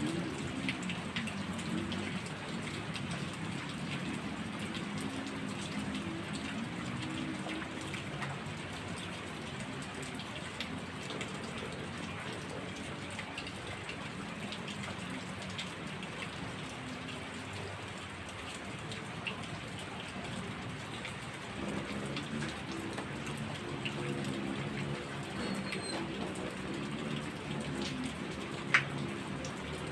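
Heavy rain falling steadily on surfaces, with many distinct drops and splashes. A single sharp tap stands out near the end.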